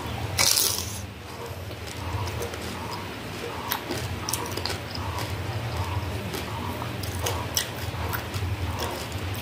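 A crisp fuchka (panipuri) shell cracking loudly as it is bitten whole, about half a second in, followed by wet, crunchy chewing with many small sharp clicks, over a low steady hum.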